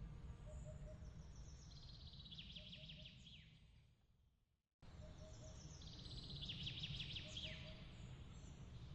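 Faint birdsong, rapid trills and short downward whistles, over a low steady rumble. About four seconds in it all fades out, then cuts back in suddenly and the same calls repeat, a looped ambience track.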